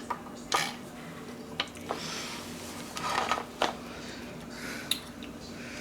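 Scattered light clicks and short scuffs of small metal parts being handled while sewing machine oil is applied to a toy live steam engine.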